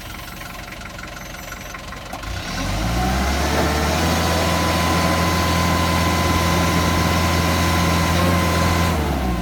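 Diesel engine of an FD35 3.5-ton forklift idling, then revving up about two seconds in and held at high revs, with a steady whine over it, before dropping back near the end.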